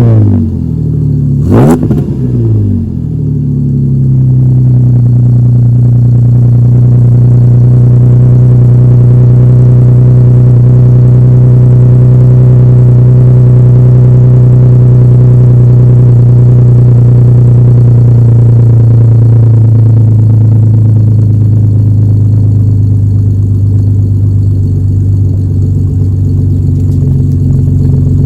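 2008 Ford Ranger's 3.0-litre V6 through a Star Max exhaust with a 3-inch pipe and 5-inch split tip: a quick rev about two seconds in that falls straight back, then a steady idle.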